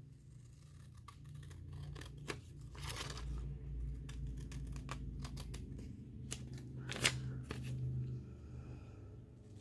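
Paper being handled during journal crafting: light rustling and small clicks, with two short rasping strokes of paper, about three and seven seconds in.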